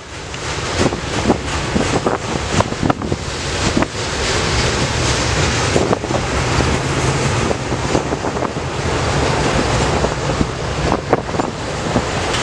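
Double-stack intermodal freight cars rolling past at trackside: a steady rumble and rattle of steel wheels on rail with scattered clicks and knocks, mixed with wind buffeting the microphone.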